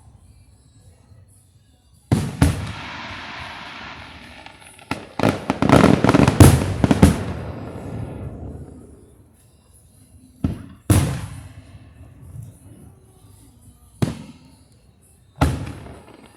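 Aerial fireworks bursting: a sharp bang followed by a crackling hiss, then a rapid volley of bangs with crackle trailing off, then four separate booms spaced a second or more apart.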